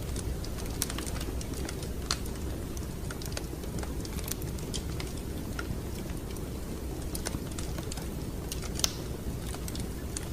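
Wood fire crackling in a fireplace: irregular sharp pops and snaps over a steady low rumble of the flames, with a louder pop near the end.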